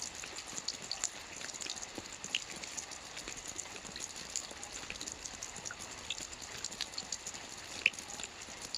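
Gentle light rain: a steady patter with many small, irregular drops ticking on a surface, one a little louder near the end.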